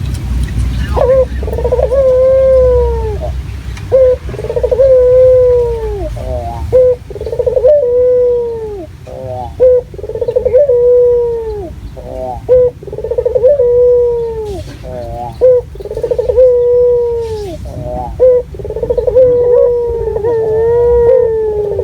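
Local puter (Barbary dove) cooing over and over, each call a quick stuttering start followed by a long drawn-out coo that falls in pitch, repeating about every two to three seconds. It is a lure call meant to set other puter doves calling.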